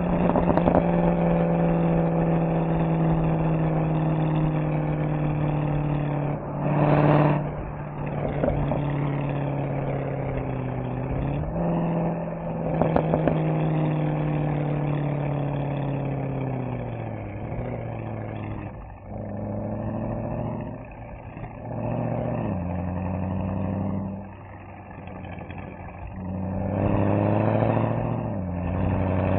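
Mercedes-AMG SL63's V8 exhaust on the move: the engine note falls as the car slows, then steps back up several times with downshifts, with short rev blips about a quarter of the way in and near the end. It is quieter for a stretch past the middle while the car coasts.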